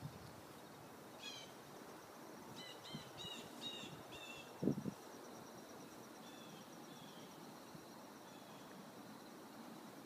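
Small birds chirping: a quick run of short, high, falling calls in the first half, a few fainter ones later. A dull thump about halfway through is the loudest sound.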